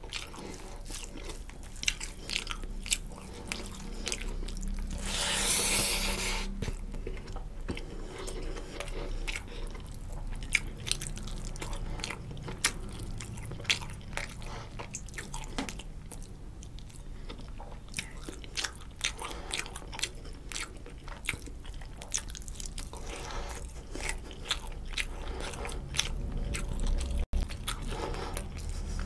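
Close-miked mouth sounds of a man eating rice and rohu fish curry by hand: wet chewing and lip smacks, with many sharp clicks. About five seconds in there is a louder, hissy stretch lasting a second or so.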